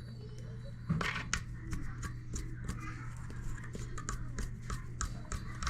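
Irregular small clicks and taps of toilet parts being handled and fitted by hand, several a second, over a steady low hum.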